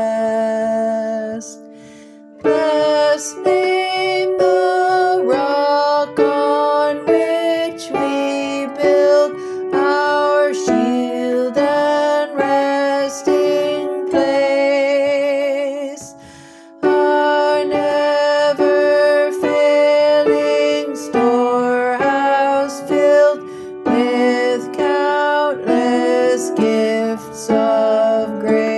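Hymn tune played in chords, note by note in a steady rhythm, phrase by phrase, with short breaks between phrases about two seconds in and about sixteen seconds in.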